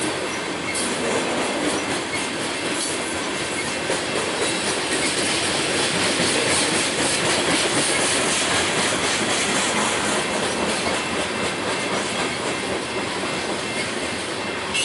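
Loaded coal cars of a long freight train rolling past, a steady rumble and clatter of steel wheels on the rails with clickety-clack over the rail joints.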